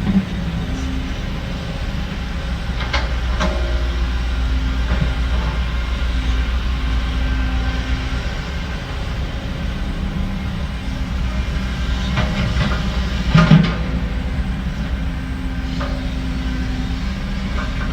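Heavy diesel earthmoving machinery running steadily with a deep engine drone, broken by a few metallic clanks about three seconds in and a louder clank near the end.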